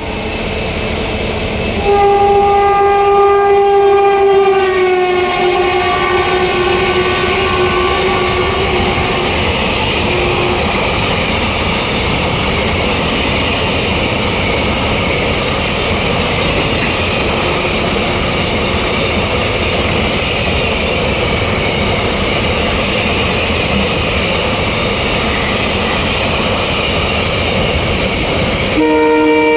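A WAG-9 electric locomotive's horn sounds for several seconds as it approaches, its pitch dropping as the locomotive passes. Then comes the steady rolling noise of a long container train's wagons running through the station. A horn sounds again near the end.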